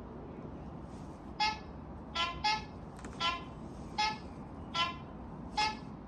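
Niu MQi GT electric scooter's turn-signal sounder beeping: short electronic beeps about once every 0.8 s, alternating between two close pitches, with two in quick succession about two seconds in. One of the scooter's selectable blinker sounds, set by holding the turn-signal switch.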